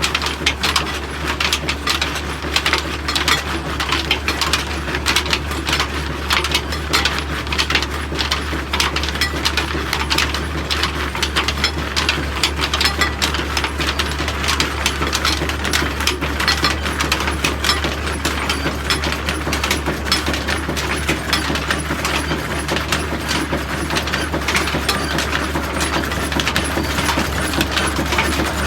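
Old stationary diesel engine running steadily while driving a chakki flour mill: a constant low drone under a dense, rapid metallic clatter.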